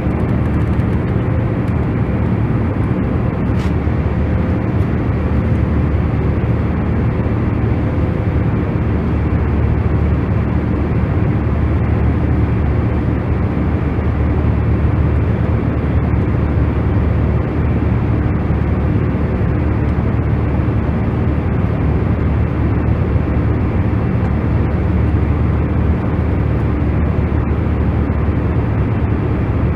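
Steady, unchanging low rumbling noise played as a sleep 'white noise' track, heaviest in the low end, with a faint steady hum underneath.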